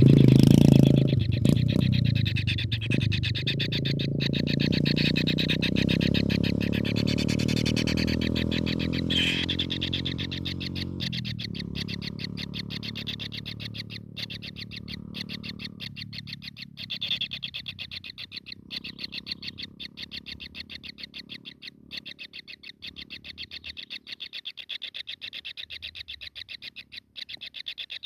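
Kingfisher calling in a fast, even rattle of short notes, with a low hum that fades out over the first half.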